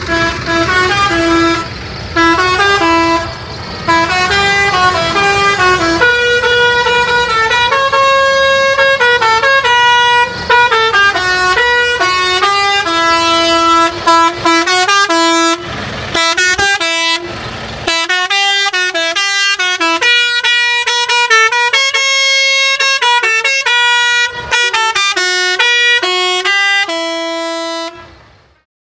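A vehicle's musical horn playing a tune of held, stepping notes over the low running noise of an engine, with two short rushing bursts of noise about two-thirds of the way through; the tune fades out near the end.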